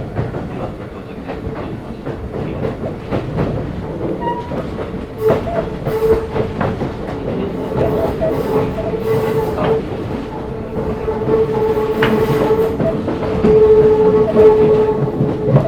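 Keisei 3500 series electric commuter train heard from inside motor car MoHa 3514 while running. Its wheels click over rail joints under a continuous rumble, and a steady whine comes in about five seconds in and holds.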